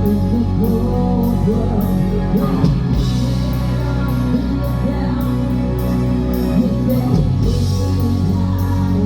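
Rock band playing live, with a singer over guitar and bass and cymbal strikes about twice a second.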